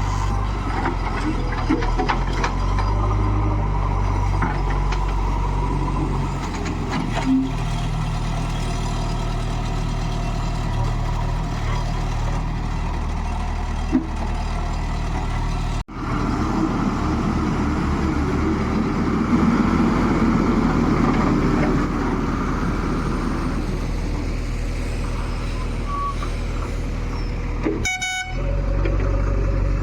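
Diesel engine of a JCB 3DX backhoe loader running steadily under working load.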